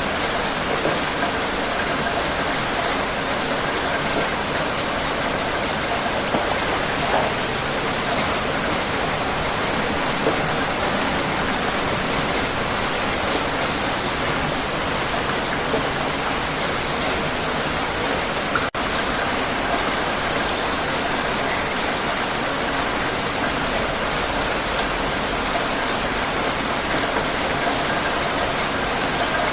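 Heavy rain falling steadily, a dense even hiss of rain on surfaces. One momentary gap comes about two-thirds of the way through.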